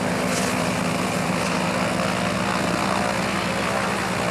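Antonov An-2's nine-cylinder radial engine and propeller running steadily.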